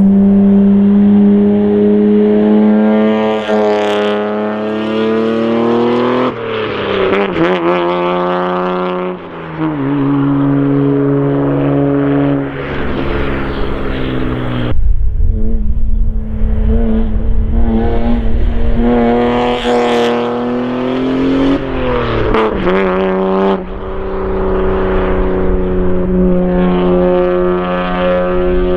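Toyota JZX90 Mark II's 1JZ-GTE twin-turbo straight-six with a modified intake and exhaust, pulling hard through the gears. Its pitch climbs and drops at each gear change several times, then settles to a steady cruise near the end.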